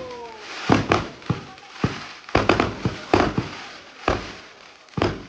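Fireworks going off: about ten sharp bangs at irregular intervals, a few close together, each dying away quickly.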